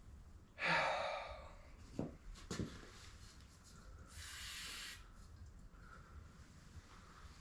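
Two short hissing bursts: a louder one lasting about half a second, starting about half a second in, and a fainter, higher one about four seconds in, with a couple of light clicks between them.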